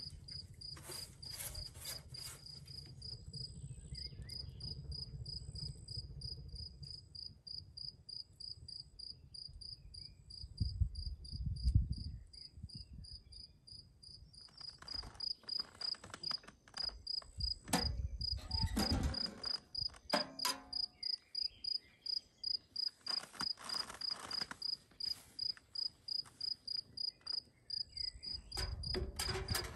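A cricket chirping steadily in short high pulses, about two to three a second. A low rumble underlies the first half, with a loud thump near the middle and several stretches of rustling noise later on.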